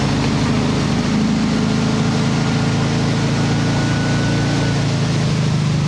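Ski boat's engine running at a steady speed while towing a water skier on a pass under cruise-style speed control, with an even, unbroken engine tone.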